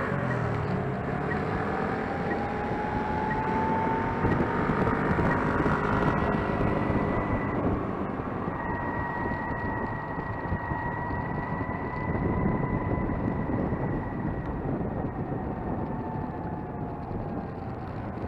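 Gogoro 2 electric scooter ridden on the road: wind rushing over the microphone and tyre and road noise, with the motor's thin whine rising slowly over the first few seconds and then holding steady.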